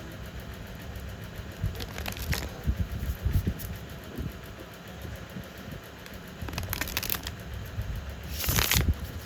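Hands handling a tarot deck and its packaging: three short bursts of card and paper rustling and sliding, with soft bumps as things are set down, over a steady low hum.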